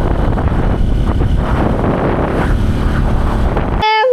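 Heavy wind buffeting the microphone of a moving motorcycle rider, with vehicle noise underneath in a steady, loud roar. Near the end it cuts off abruptly and a high-pitched voice takes over.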